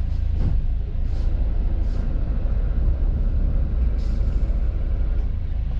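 Sailing yacht's inboard diesel engine running steadily at low revs as a low rumble while the boat motors in under power.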